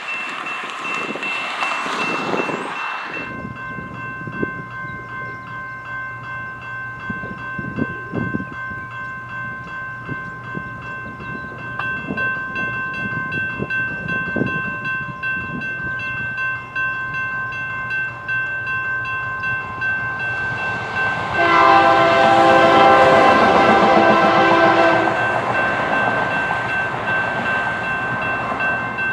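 Electronic grade-crossing bell ringing steadily while an approaching freight train's diesel locomotives rumble. About three-quarters through, the lead locomotive sounds one long air-horn blast of about three and a half seconds, the loudest sound.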